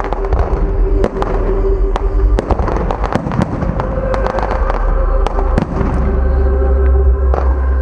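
Fireworks going off in quick succession: many sharp bangs and pops scattered through the display over a heavy low rumble.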